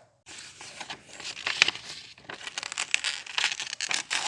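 A drawing tool scratching across paper in quick, irregular strokes.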